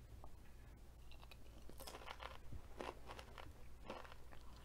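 Someone chewing a mouthful of crunchy tortilla-chip nachos, with a few faint crunches at uneven intervals about a second apart.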